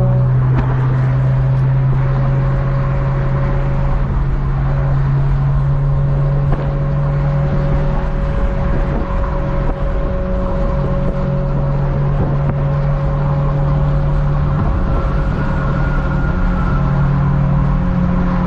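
Car engine running at a steady speed with road noise, a continuous even drone while cruising.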